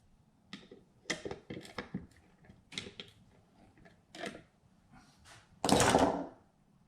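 Scattered light clicks and knocks of alternator parts being handled, then one louder noisy sound lasting about half a second near the end.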